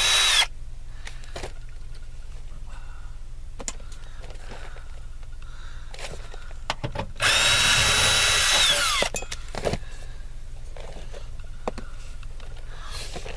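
Power drill running for about two seconds, its motor whine spinning up, holding and winding down. A few light clicks and knocks from handling parts, over a steady low hum.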